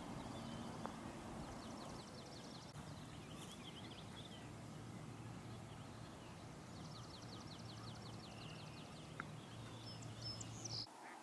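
Small bird singing a rapid trill of evenly spaced high notes, twice, with scattered chirps, over a steady low rumble. The background changes abruptly near the end.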